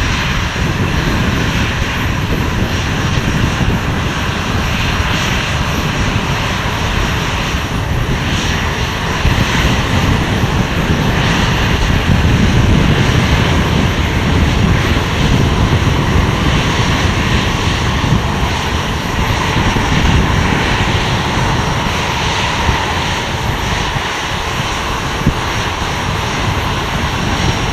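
Airliner engines running with a loud, steady rumble that swells a little midway and eases slightly near the end.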